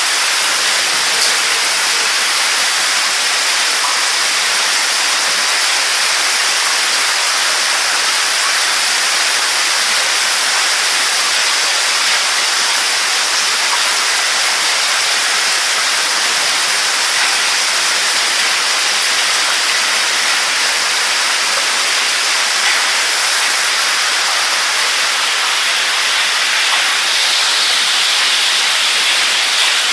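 Heavy hailstorm: a steady, dense hiss of hail and rain pelting down, with a few sharper ticks from single impacts.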